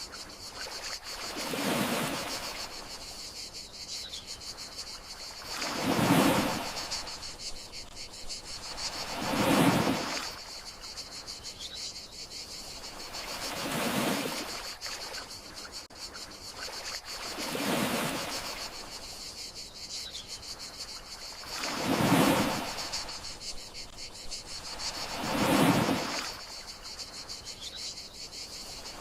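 Gentle sea waves washing ashore, one swell about every four seconds, over a steady high chirring of crickets.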